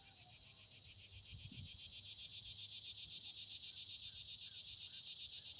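Insects trilling in a steady, fast-pulsing chorus, growing louder about a second and a half in.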